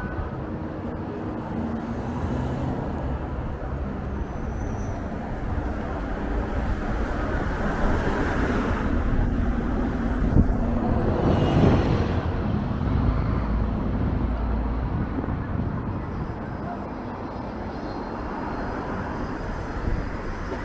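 Road traffic on a city street, with strong wind buffeting the microphone as a low rumble. The traffic noise swells louder around ten seconds in as vehicles pass.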